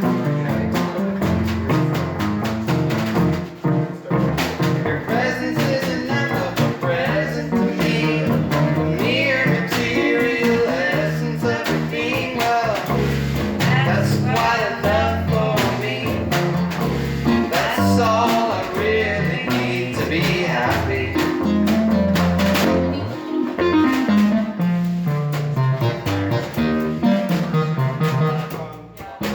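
A live band playing, with guitar prominent.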